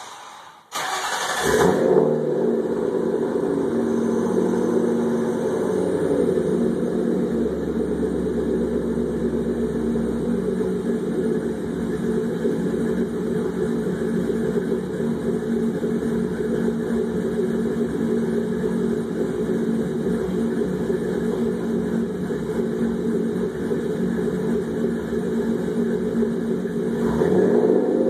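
1994 Ford Thunderbird's 4.6-litre two-valve V8, breathing through Mac mufflers with no catalytic converters and shorty headers, starts up about a second in and then idles steadily. It begins to rev near the end.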